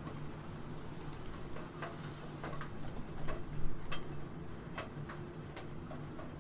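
Computer keyboard keys clicking at a slow, uneven pace, single keystrokes rather than a fast run, over a steady low hum.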